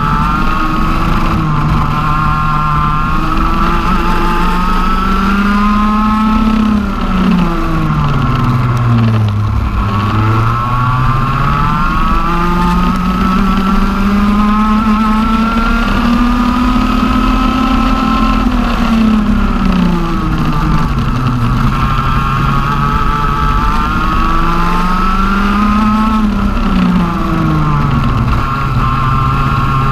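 TM OK-class 125 cc two-stroke kart engine running hard on track. Its pitch climbs smoothly along the straights and falls sharply three times as it comes off the throttle into corners, with no gear changes since the engine is direct-drive.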